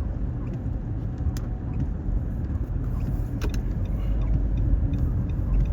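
Steady low road rumble of a car being driven, heard from inside the cabin, with a few faint clicks.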